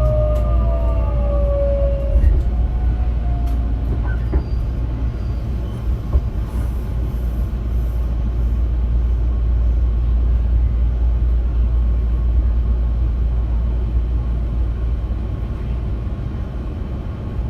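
Tobu 20400 series electric train running on the rails: a motor whine glides down in pitch and fades out about two seconds in, typical of the train braking. After that a steady low rumble of wheels on rail carries on with a few faint clicks, getting gradually quieter as the train slows.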